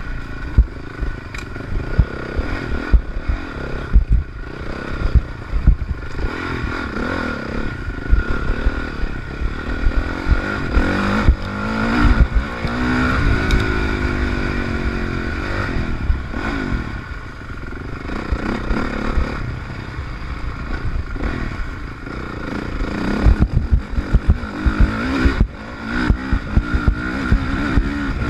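Honda CRF450R's single-cylinder four-stroke engine revving up and down as the bike is ridden hard off-road, with a long rise in revs about twelve seconds in. Frequent short thumps run through it as the bike goes over rough ground.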